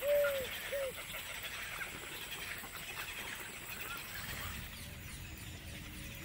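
Chorus of many birds calling and chattering, with a couple of short, arched, hooting calls at the start. The chatter thins out after about four seconds as a low rumble comes up.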